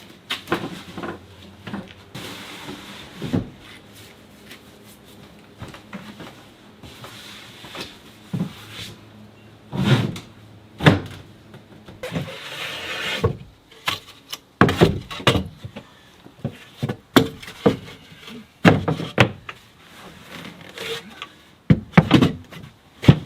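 Irregular knocks and clunks of wooden pieces and gear being handled and fitted into a pickup truck bed, with a couple of stretches of scraping or rustling.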